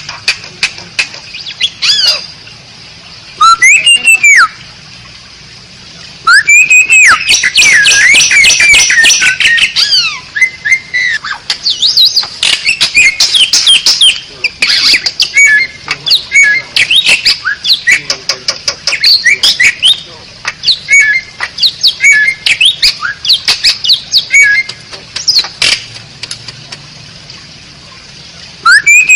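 Asian pied starling (jalak suren) singing: loud runs of chattering, squawky notes and quick whistles, in several bursts with short pauses between.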